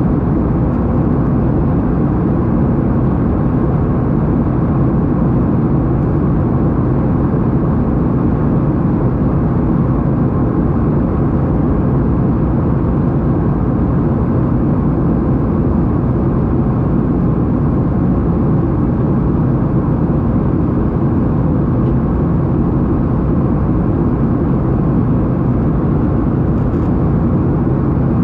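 Steady engine and airflow noise inside a jet airliner's passenger cabin, a constant low rumble with no change in pitch or level.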